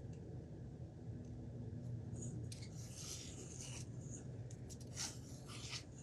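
Faint rubbing, scraping and a few light clicks of small parts being handled and fitted, over a steady low hum.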